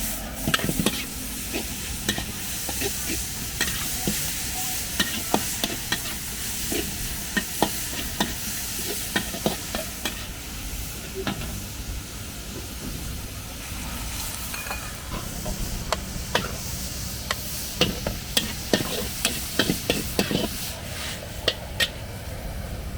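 Food sizzling in a hot wok as it is stir-fried, with frequent sharp clanks and scrapes of a metal spatula against the wok.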